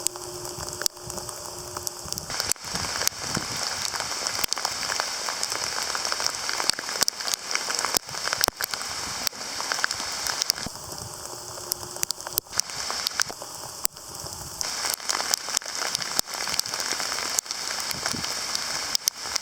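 Hail falling hard, a dense hiss thick with sharp ticks of hailstones striking hard surfaces.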